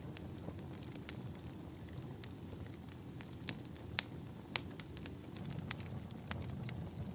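Crackling fireplace: a low steady rumble of burning logs with irregular sharp pops and snaps, the two loudest about four and four and a half seconds in.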